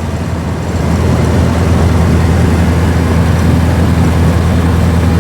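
A 1924 Austin Seven's small four-cylinder side-valve engine running steadily under way, with road noise, heard from inside the cabin; it grows a little louder about a second in.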